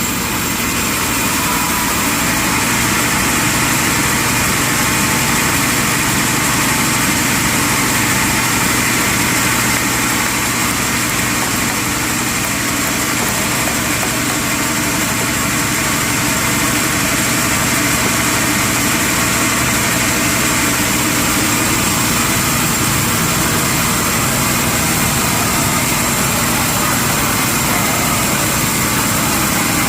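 Sawmill machinery running steadily: a loud, even mechanical noise with a constant hum, unchanging throughout.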